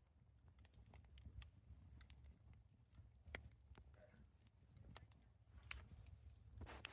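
Near silence: a low rumble with faint, scattered sharp clicks.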